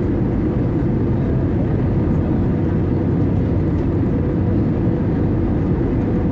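Steady cabin noise of an Airbus A320-200 in flight: engine and airflow roar, strongest in the low range, with a faint steady hum on top.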